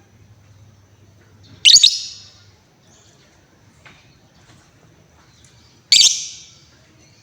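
Female lovebird giving two loud, harsh shrieks about four seconds apart.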